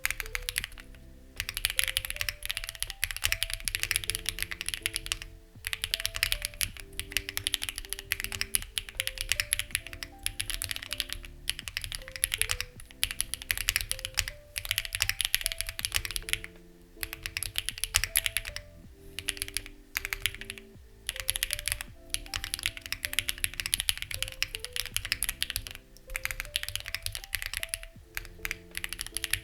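Fast typing on a Lucky65 v2 mechanical keyboard with stock, unlubricated HMX Ziwei switches: dense key clacks in runs, broken by brief pauses. Soft background music with held notes plays under it.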